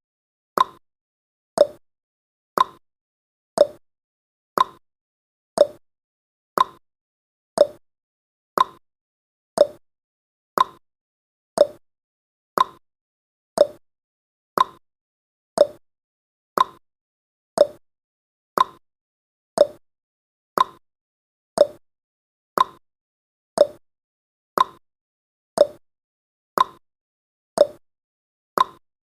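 Countdown timer's clock-tick sound effect: one short, sharp tick every second, alternating between a lower and a higher tick like a tick-tock.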